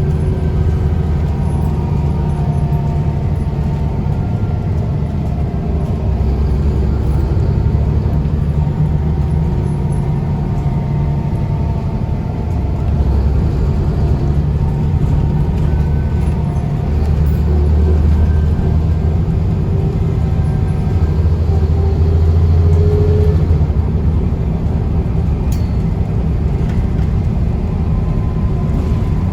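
Scania L94UB bus's DSC9 nine-litre diesel engine running under way, a steady low drone that swells and eases a little as the bus drives, with faint whining tones above it.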